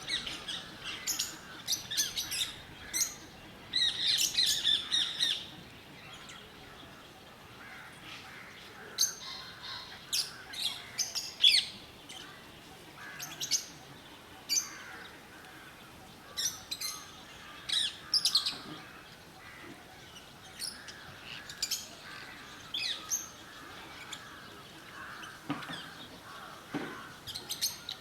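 Lovebirds chirping in short, high-pitched calls again and again, with a denser run of chatter about four seconds in.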